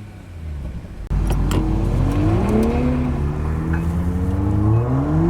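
Car engine revving, starting abruptly about a second in, its pitch climbing and dropping, then climbing again near the end.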